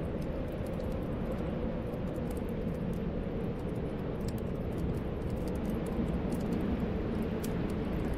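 Snowstorm wind blowing and whistling steadily, with small crackles of a wood fire scattered throughout.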